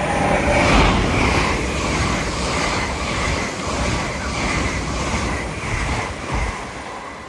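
An LNER Azuma, a Hitachi Class 801 electric train, passing through the station at speed: a loud rush of air and wheel noise that peaks about a second in, with a regular beat about twice a second as the coaches go by, easing off near the end.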